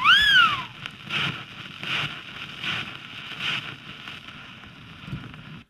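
The falling second note of a two-note wolf whistle, rising then gliding down, followed by faint, evenly repeated chirps until the sound cuts off abruptly near the end.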